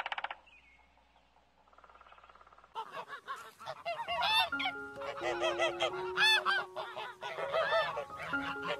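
Many birds honking together, starting about three seconds in, with steady held tones underneath.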